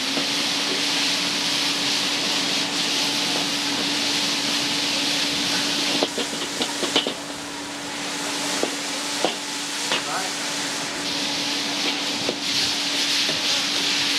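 Pork pieces frying in hot oil in a wok over high flame, with a steady sizzle. The metal ladle scrapes and knocks against the wok, the knocks coming close together in the second half. A steady low hum runs underneath.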